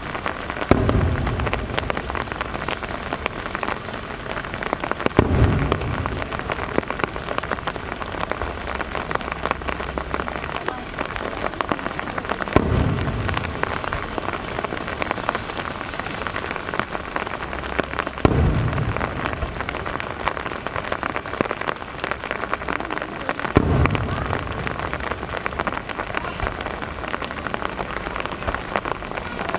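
Steady rain falling, with six deep booms of aerial firework shells bursting at intervals of five to seven seconds, each dying away slowly.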